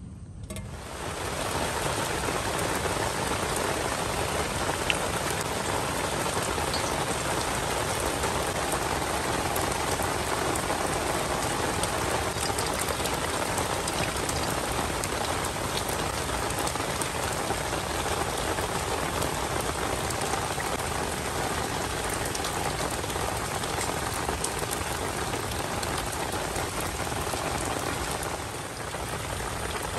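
Heavy rain pouring down steadily, cutting in suddenly just after the start.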